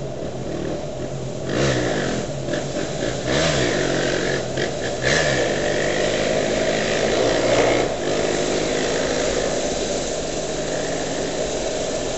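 Land Rover Discovery V8 engine heard from inside the cabin, revving up and easing off several times over the first eight seconds, then running more steadily.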